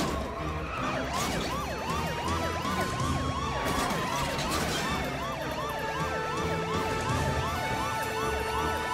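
Several police car sirens yelping at once, overlapping rapid rising-and-falling wails of about three a second, with a few longer held siren tones.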